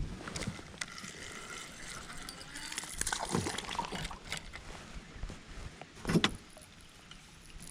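Light clicks, knocks and splashes as a hooked smallmouth bass is reeled in and landed, with the fishing tackle rattling; two louder knocks come about three and six seconds in.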